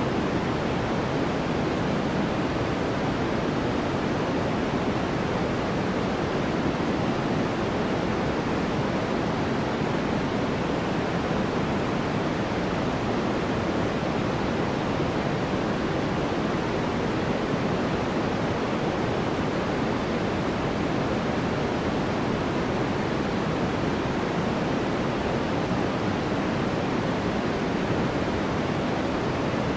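Steady sleep noise, a continuous, unchanging rushing hiss. It is heavier in the low and middle range than in the highs, closer to pink noise than to strict white noise.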